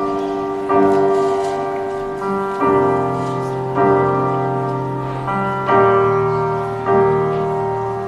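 Piano playing a slow introduction: a sustained chord is struck every second or two, and each rings and fades before the next.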